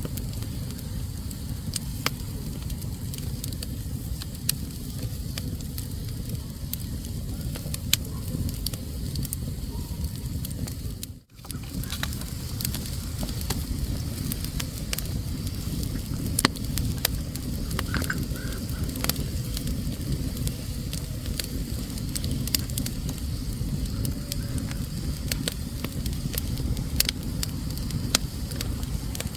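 Wood fire burning in a fireplace: a steady low rush of flames with frequent sharp crackles and pops. The sound drops out for a split second about eleven seconds in.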